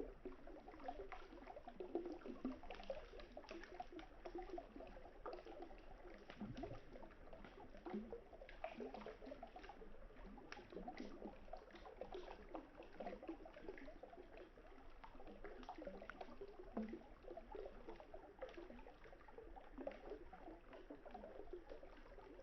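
Faint, steady gurgling and lapping of river water, with scattered small crackles and pops from a burning wood campfire.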